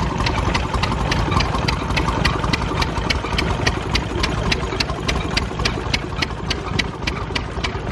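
Small vintage stationary barn engine running steadily, with a low chugging and a sharp, regular tick about five times a second that sounds like a bit of a squeak.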